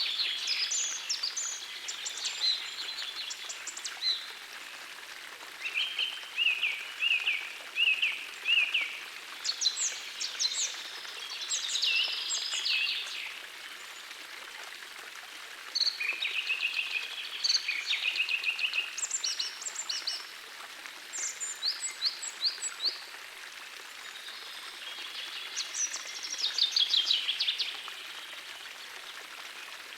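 Songbirds singing in phrases a few seconds long, some quick trills and some rapid high sweeping notes, with short pauses between, over the steady rush of a gentle forest stream.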